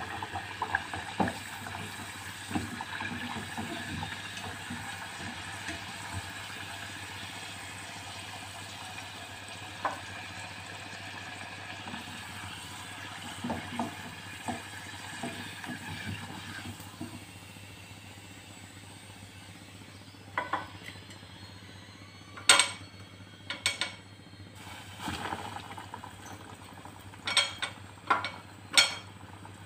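Floured elephant yam slices deep-frying in a pot of oil: a steady bubbling sizzle that eases about two-thirds of the way through. Wooden chopsticks and utensils clink against the pot and plates, with several sharp clinks in the second half.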